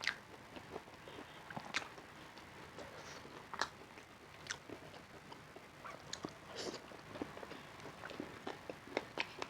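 Close-miked eating: biting and chewing, with irregular short wet clicks and smacks from the mouth.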